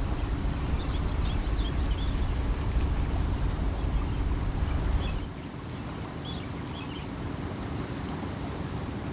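Strong wind buffeting the microphone with a low rumble that eases about five seconds in, leaving a steady rush of wind. A few faint high chirps come and go.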